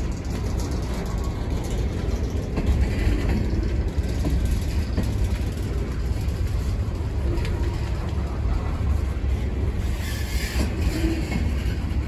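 Freight train's covered hopper cars rolling past close by: a steady rumble of steel wheels on the rails.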